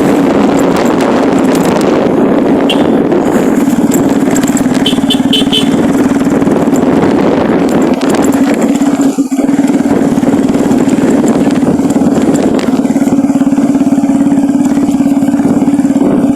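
A vehicle engine running at a steady cruising speed while on the move, a constant drone with road and wind noise, dipping briefly about nine seconds in.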